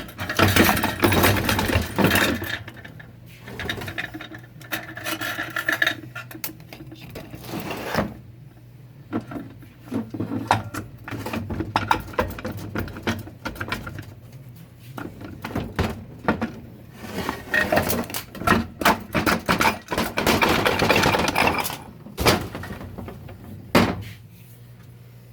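Metal transmission parts being scraped, rubbed and knocked together during the teardown of a 4L60-E automatic transmission: several stretches of rasping and scraping, broken up by clicks and clanks.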